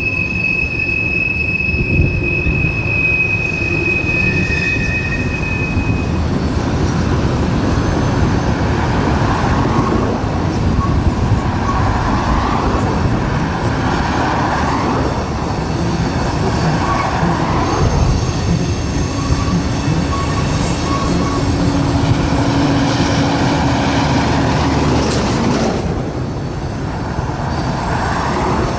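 Train rolling past on steel rails: a continuous loud rumble of wheels on track. A high, steady wheel squeal holds for the first several seconds, then fainter squeals come and go.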